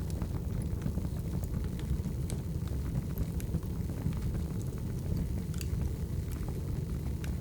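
Wood fire burning steadily: a low rumbling roar of the flames with scattered small crackles and pops from the burning logs.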